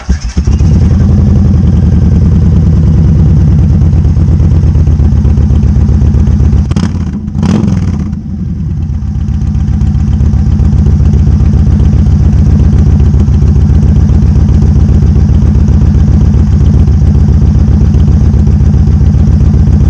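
Yamaha Raider's 1854 cc air-cooled V-twin running through its stock exhaust pipes with the baffles drilled out, a loud, deep, evenly pulsing exhaust note. About seven seconds in it drops in level briefly with two sharp clicks, then comes back up and runs steadily until it stops just before the end.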